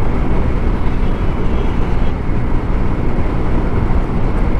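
Steady wind rush and road noise on a TVS Scooty Zest scooter riding at speed, with the scooter's small engine droning underneath.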